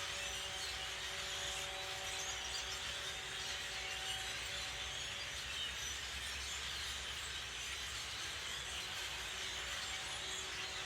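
Many small birds chirping and chattering faintly, a dense steady chorus, over a steady low hum.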